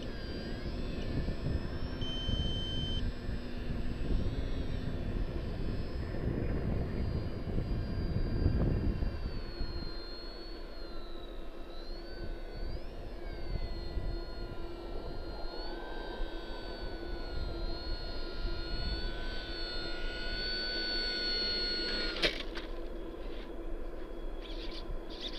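Electric motor and propeller of a ParkZone VisionAire RC plane whining, the pitch rising and falling as the throttle changes. Wind rumbles on the microphone for roughly the first ten seconds, and there is a sharp click a little over twenty seconds in.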